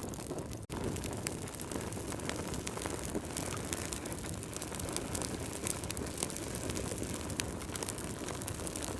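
Fire crackling: a steady low rush with many small sharp pops and crackles throughout, broken by a split-second gap of silence under a second in.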